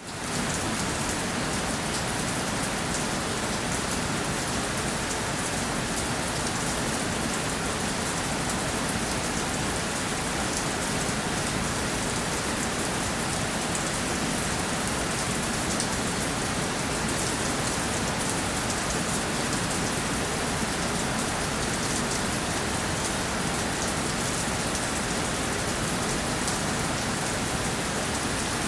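Steady rainfall: an even hiss with a fine patter of drops, fading in quickly at the very start.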